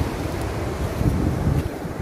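Wind buffeting the microphone: a low, rumbling noise that gusts stronger about a second in.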